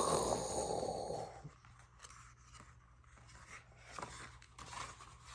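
Paper pages of a picture book being handled: a soft rustle that fades over the first second or so, then a few faint clicks and taps.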